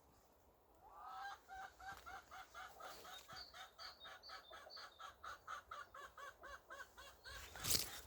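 Chicken clucking in a fast, even run of about four calls a second, starting about a second in. A single sharp knock near the end.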